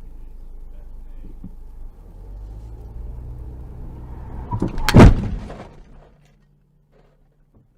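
Steady car engine and road noise, then a loud crash impact about five seconds in, after which the sound cuts out.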